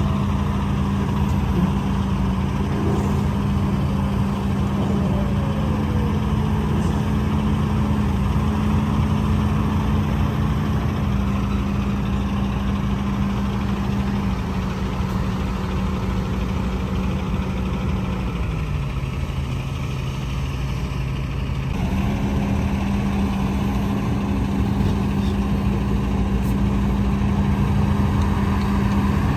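Heavy diesel engine of earthmoving machinery running steadily. Its speed drops about two-thirds of the way through and picks back up a few seconds later.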